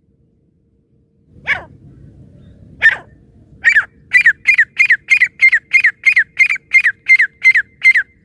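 Francolin (teetar) calling: two single sharp calls, then a fast run of about a dozen down-slurred notes at roughly three a second.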